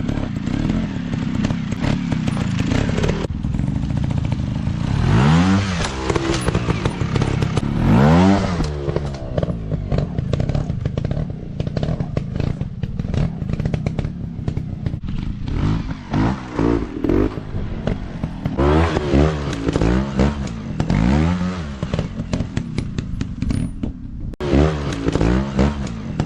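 Dirt bike engine revving up and down again and again under throttle, with clattering knocks throughout.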